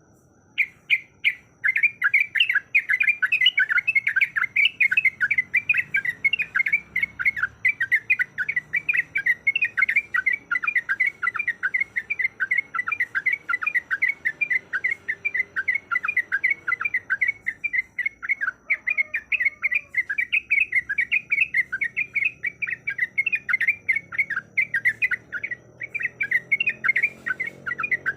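Yellow-vented bulbul (trucukan) singing a long, fast, unbroken chattering roll of short sweeping notes. It is the bird's rapid 'ropel' song, here used as a trigger call to make other bulbuls sing.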